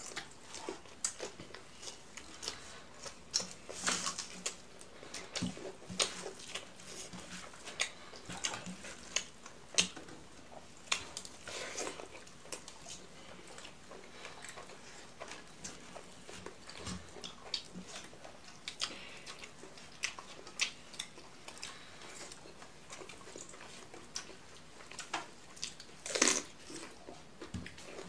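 Close-miked chewing and lip smacking as rice and fried cabbage fritters are eaten by hand: a steady run of short clicks, with one louder smack about two seconds before the end.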